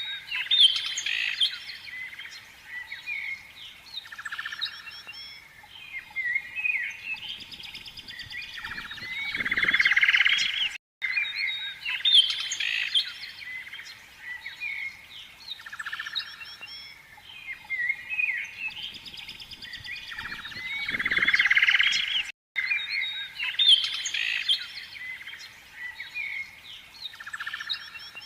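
Several birds chirping and singing over one another in quick, high calls and trills. The same stretch of birdsong loops about every eleven seconds, with a brief cut at each repeat.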